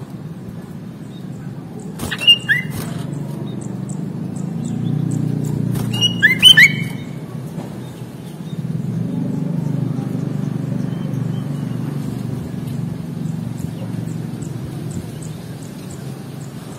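Sooty-headed bulbul giving short, sharp chirping calls: a pair about two seconds in and a quick cluster of several about six seconds in. A steady low rumble runs underneath.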